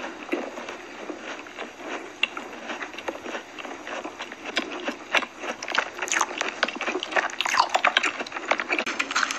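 Close-miked chewing of soft macarons with closed mouths: a dense run of small wet clicks and smacks, busier in the second half.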